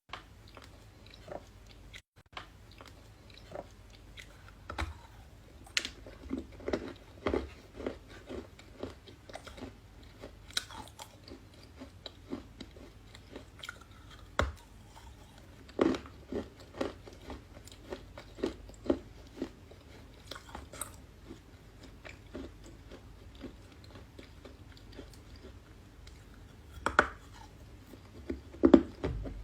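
Close-up crunching and chewing of a chalky clay, with irregular sharp bites and crunches and softer chewing between them; a few louder bites near the end.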